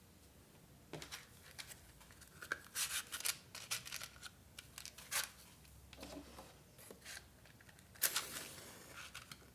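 Scissors cutting paper in quick runs of snips, with paper being handled. About eight seconds in there is one louder, longer scrape of paper.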